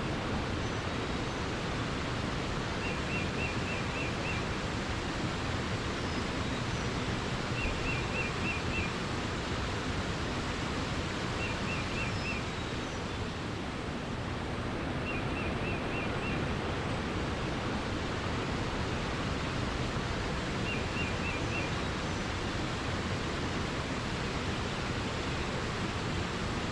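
Running water rushing steadily, with a small bird repeating a short phrase of about five quick high notes, five times over.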